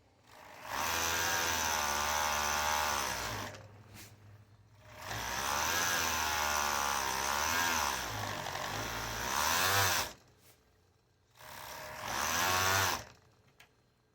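Electric sewing machine stitching tablecloth fabric in three runs, its motor pitch wavering up and down as the speed changes, with short pauses between runs.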